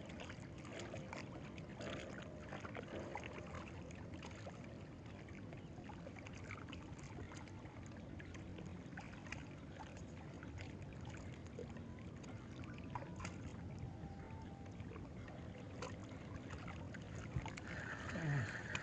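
Water lapping and sloshing, with scattered light clicks and knocks throughout. A short higher-pitched sound with a falling low tone comes near the end.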